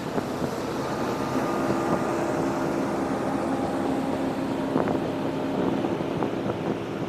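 A boat's engine running steadily under wind and water noise.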